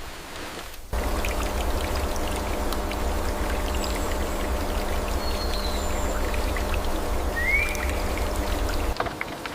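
Running water of a waterfall, a steady rushing noise that cuts in abruptly about a second in and stops just as abruptly near the end.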